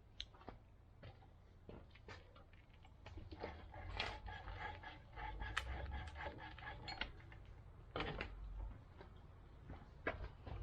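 Scattered light clicks and knocks in a small room, busiest in the middle, over a faint low hum.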